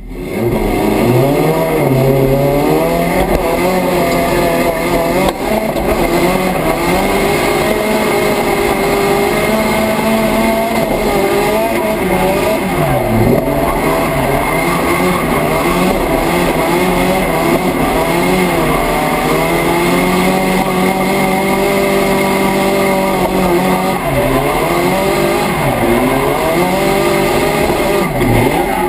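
A race car's engine, heard from inside the cabin, revving up and down continuously through a run on the track. Its pitch drops sharply a few times, near the middle and twice near the end.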